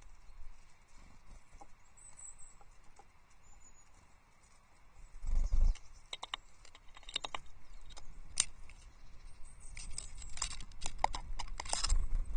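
Tits moving about on an osprey nest: a quick run of light taps and clicks from their feet and bills on the sticks and perch, with a few thin, high tit calls. A brief low rumble about five seconds in.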